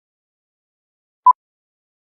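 A single short electronic beep, one steady mid-pitched tone, about a second in, with dead silence around it.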